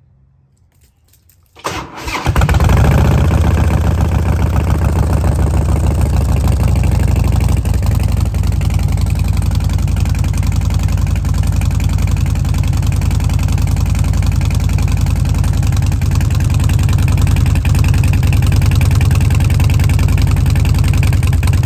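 Harley-Davidson V-twin started up, catching about two seconds in and settling into a steady idle. It breathes through American Custom slip-on mufflers fitted with new baffles.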